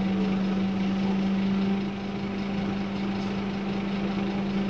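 Scania K230UB bus's Scania DC9 five-cylinder diesel engine running steadily, with a constant droning hum, dipping slightly in level about two seconds in.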